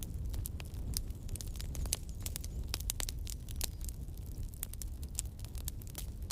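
Wood campfire burning, crackling with many irregular sharp pops and snaps over a low steady rumble.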